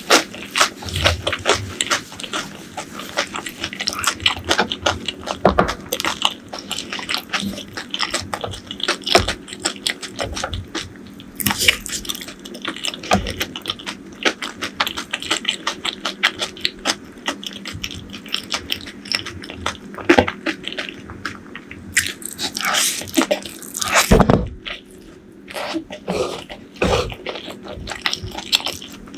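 Close-miked eating sounds: biting and chewing food in a dense run of crisp mouth clicks, with a few louder, longer noises near the middle and about three quarters of the way in.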